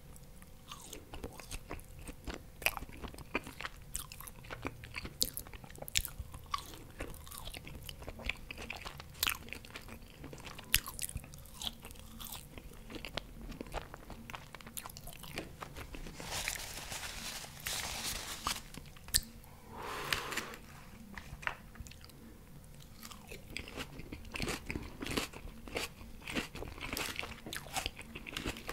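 Close-miked chewing of sauce-dipped french fries: a dense run of small crisp and wet mouth clicks and smacks, with a longer breathy hiss about two-thirds of the way through.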